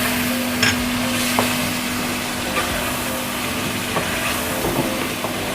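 Tomato and yogurt masala sizzling as it fries in a karahi, with a few short clicks of a spoon against the pan and a steady low hum underneath.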